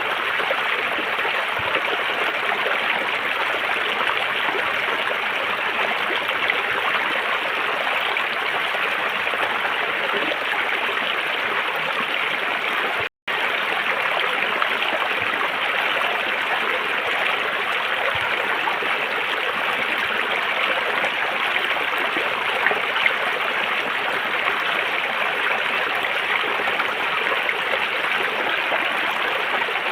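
River water flowing and rushing steadily over rocks, with a momentary cut to silence about thirteen seconds in.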